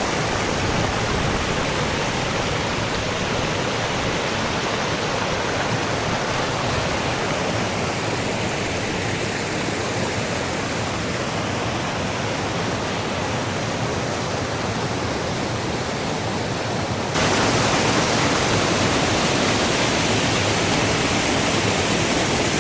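Waterfall rushing as a steady, even roar of water. About seventeen seconds in it suddenly gets louder and brighter and stays that way.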